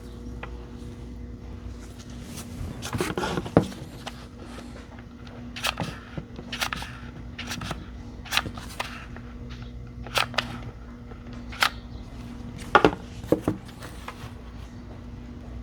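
Cylindrical 18650 lithium-ion cells being set into rows for a battery pack, clicking and knocking against each other and the bench at irregular intervals about a second apart, over a steady low hum.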